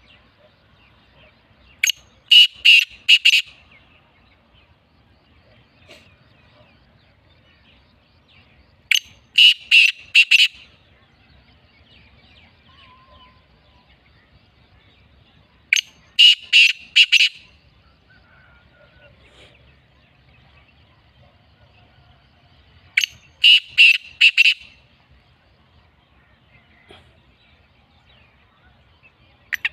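Black francolin calling: four loud, harsh calls about seven seconds apart, each a short lead note followed by a quick run of four or five grating notes.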